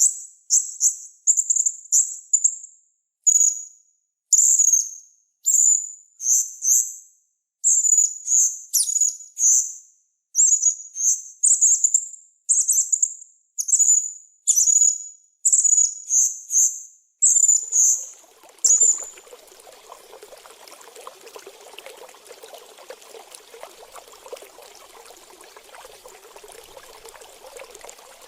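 Small songbird singing: rapid bursts of very high-pitched chirps with short gaps between them. After about eighteen seconds the song stops and a steady trickle of running water takes over.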